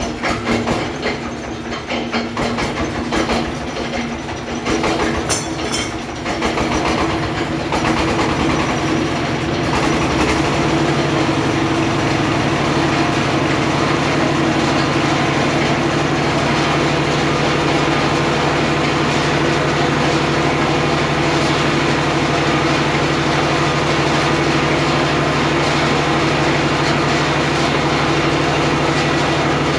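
Engine-driven homemade circular sawmill running, uneven for the first ten seconds or so, then settling into a steady hum.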